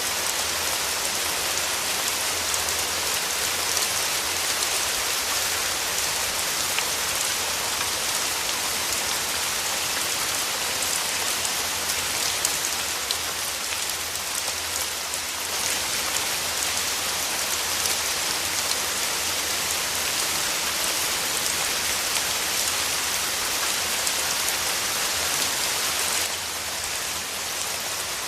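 Steady rain falling on a surface, a dense patter of drops with scattered sharper drip ticks; it eases slightly near the end.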